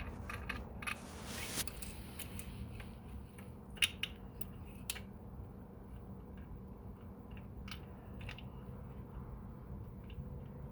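Small metal clicks, taps and scrapes of hands working an EGR valve's bolts and gasket into place deep in an engine bay, with a sharp click about four seconds in.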